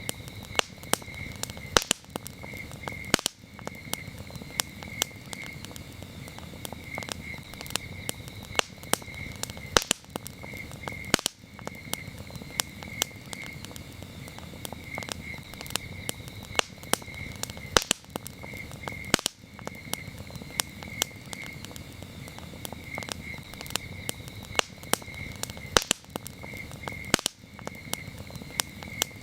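Campfire crackling, with frequent sharp pops over a steady low hiss of burning wood, and crickets chirping in a high, evenly pulsing trill behind it.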